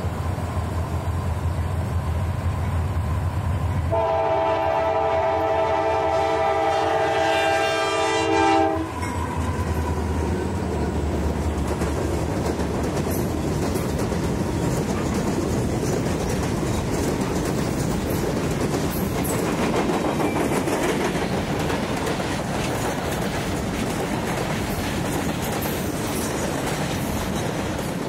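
Diesel freight train passing at close range. The locomotive's horn sounds a chord over a low engine rumble, louder from about four seconds in, and cuts off sharply about nine seconds in. Then a long string of boxcars rolls by with a steady clatter of wheels on the rails.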